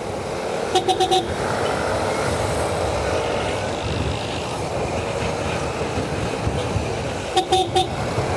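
Two quick bursts of short, rapid horn beeps, about a second in and again near the end, over the steady running noise of a Yamaha Mio Soul i 125 scooter on the move, with wind on the microphone.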